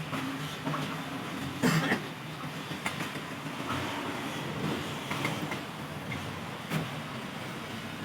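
Scattered metal clinks and knocks from hand work on an engine, over a steady low hum. The loudest knock comes just under two seconds in.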